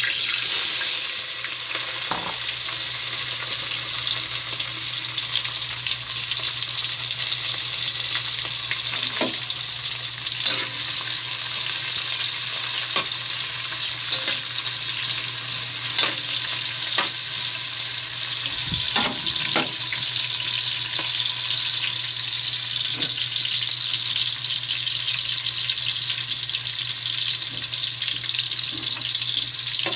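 Sliced onion, garlic, ginger and red chilies hitting hot oil in a stainless steel pot and sizzling. The sizzle starts suddenly and runs steadily, with scattered sharp clicks.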